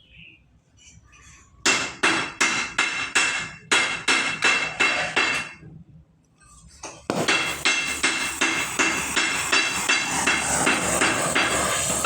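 Hammer blows ringing on metal in a steady rhythm: two runs of about five blows, a short pause, then a longer, slightly faster run of blows from about seven seconds in.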